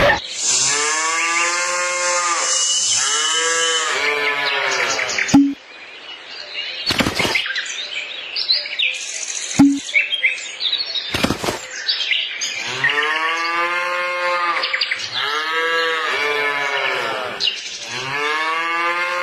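Cattle mooing: a run of short calls, each rising then falling in pitch, then a quieter stretch broken by two sharp knocks, and the calls starting again.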